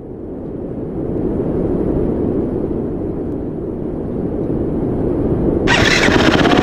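Dirt bike engine: a low rumble that grows louder over the first couple of seconds and holds, then near the end a much louder, sharper engine note with rapid firing pulses cuts in suddenly.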